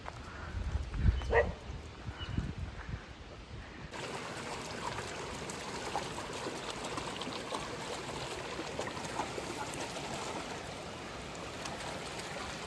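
Steady rushing of running water from a mountain stream by the waterfall trail, beginning abruptly about four seconds in. Before it come low wind-like rumbles on the microphone and a short rising animal cry.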